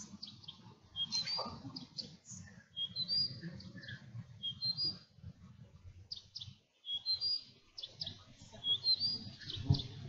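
A small songbird singing short, high chirping phrases over and over, one every second or two, over a low rustling rumble. There is a sharp thump near the end.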